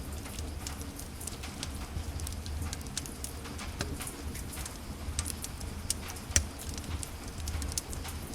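Wood fire burning in a fireplace: irregular crackles and snaps over a low, steady rumble, with one sharper pop about two-thirds of the way through.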